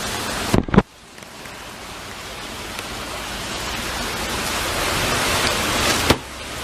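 Heavy rain falling, a steady hiss that grows steadily louder over several seconds and drops off abruptly near the end. A short sharp knock comes just before the rain sound starts.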